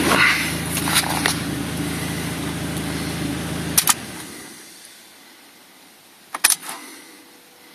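A 1999 Mazda MX-5's 1.8 four-cylinder engine running at idle, which dies away a little before halfway, just after a couple of sharp clicks. A few seconds later there are two more sharp clicks and a short rattle, like the key being handled.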